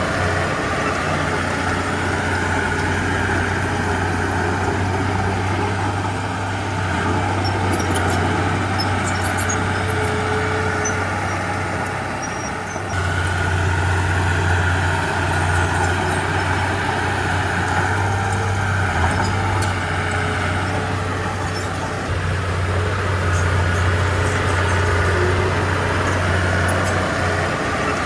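A heavy diesel engine of earthmoving machinery running under varying load, a steady low drone that eases off and then picks up again, strengthening sharply about halfway through.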